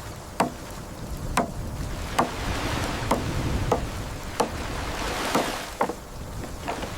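A series of sharp knocks, roughly one a second, over a steady rush of flood water.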